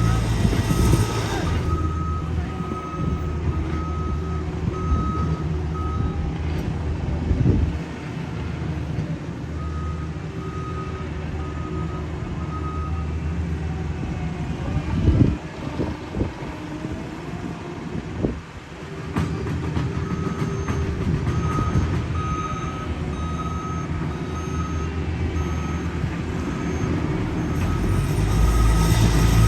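Diesel engines of heavy road-paving machinery running steadily, with a backup alarm beeping in an even series near the start. The beeping returns from about two-thirds of the way through, joined by a second, higher-pitched backup alarm.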